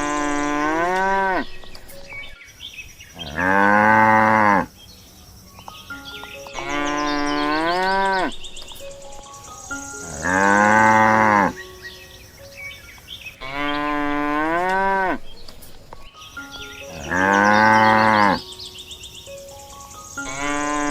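Cows mooing, six long moos about three seconds apart, alternating a lower moo that rises at its end with a louder, higher one. The pair repeats identically, like a looped sound effect.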